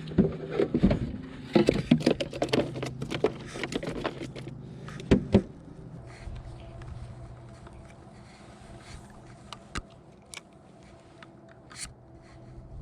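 Clatter of knocks, clicks and scraping as gear is handled in a small fishing boat for about five seconds. Then a quieter steady hum with a few scattered clicks.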